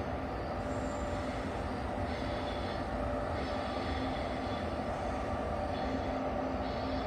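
Frecciarossa high-speed electric train moving along the station tracks, a steady running rumble with a faint constant whine over it.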